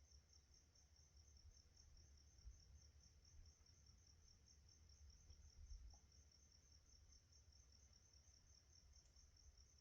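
Night insects chirping faintly in a fast, even pulse, over a faint low rumble.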